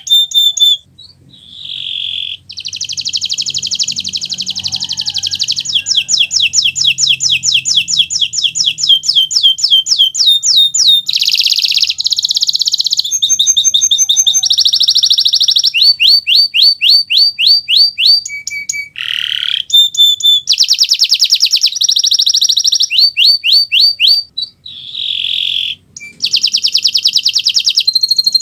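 Kenari Nusantara canary singing a continuous song. It is made of rapid trills and rolls of repeated high notes, switching from one note type to another every second or two, with a few brief breaks.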